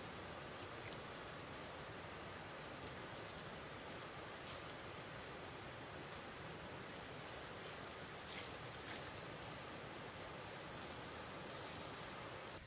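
Insects chirping steadily with a thin high-pitched drone, over a low hiss of outdoor background noise and a few faint clicks.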